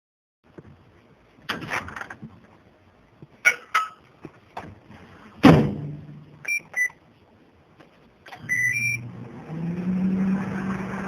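Microwave oven being loaded and started: clicks and knocks, a loud thump about halfway, a few short keypad beeps, then the oven switching on with a steady low hum for the last few seconds.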